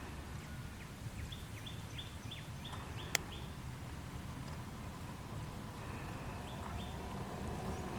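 A bird calling a quick run of short, falling chirps, with a few more near the end, over a steady low rumble of outdoor background noise. There is one sharp click midway.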